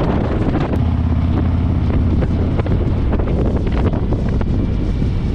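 Motorcycle riding at speed, heavy wind buffeting the microphone over the low, steady engine drone.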